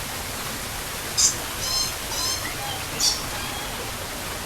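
Steady splashing of a fountain falling into a koi pond. Over it come two short, sharp high-pitched chirps, about a second in and about three seconds in, and a brief squeaky high call between them.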